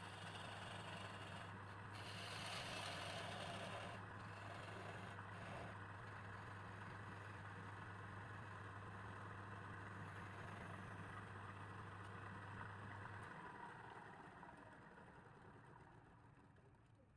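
Electric motor of a restored wood lathe running with a steady hum, switched off about thirteen seconds in and winding down.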